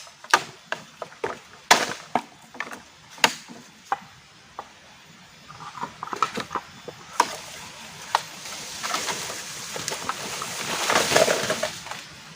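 Wood being chopped with a blade: a run of sharp blows about three a second for the first few seconds, then scattered lighter knocks. Near the end a louder rustling noise swells up and fades.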